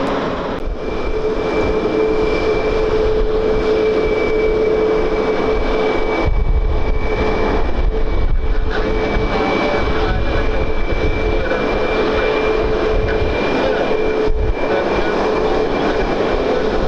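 Aircraft engines running steadily with a continuous whine, with gusty wind rumbling on the microphone.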